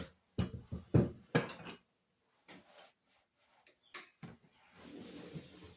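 Hard household objects being handled: a quick series of knocks and clinks, a single sharp click about four seconds in, then a brief rubbing sound.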